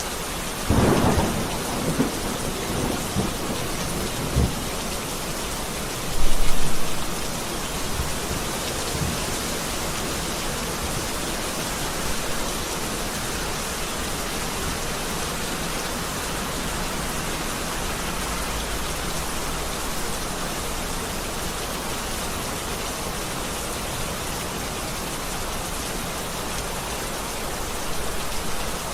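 Heavy rain falling steadily, with thunder: a crack about a second in, then rumbles, the loudest about six seconds in.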